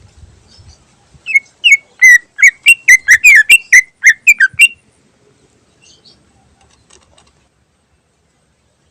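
A cucak ijo (green leafbird) singing a fast run of about a dozen loud, whistled notes that swoop up and down, about four a second. It starts about a second in and stops a little past the middle, with only faint chirps after.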